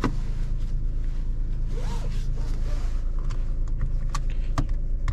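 Suzuki Alto's 660cc three-cylinder engine idling steadily, heard from inside the closed cabin as a low, even hum, with a few light clicks about four seconds in.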